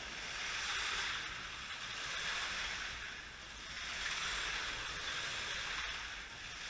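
Slot cars running round the track: a steady hissing whir of small electric motors and pickup braids on the rails, rising and falling in waves as the cars pass by.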